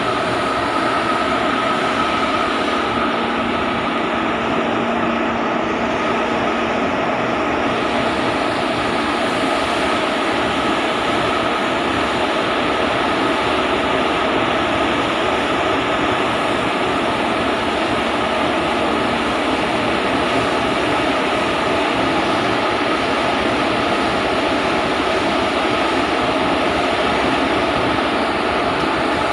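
Steady mechanical engine drone with a constant hum, unchanging throughout.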